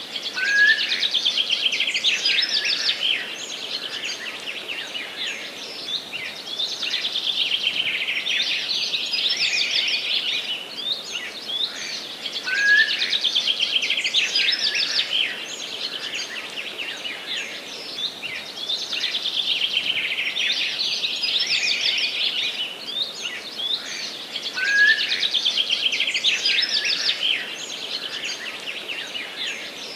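Songbirds singing continuously: overlapping high chirps and rapid trills in long phrases. A short rising note recurs about every twelve seconds.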